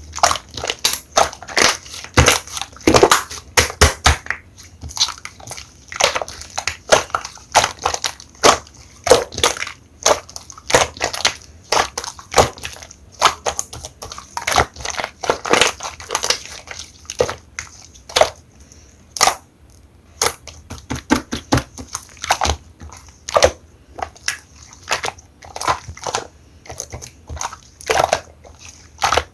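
Blue slime being squeezed and pressed by hand, giving a dense, irregular run of sharp clicks and pops, several a second, with a sparser stretch past the middle.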